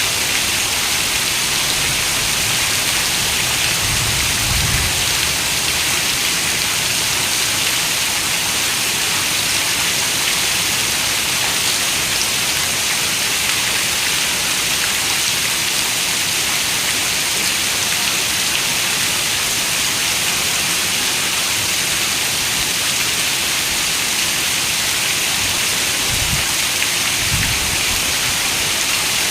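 Steady rain falling, a dense even hiss. Two short, low rumbles of distant thunder come about four seconds in and again near the end.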